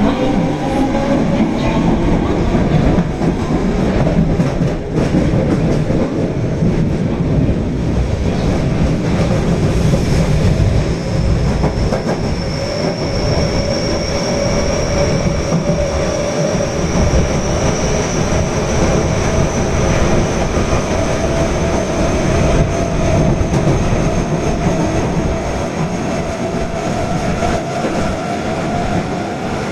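Osaka Metro Tanimachi Line subway train running at speed, heard from inside the car: a steady, loud rumble of wheels on rail with a traction-motor whine that climbs slowly in pitch over the second half.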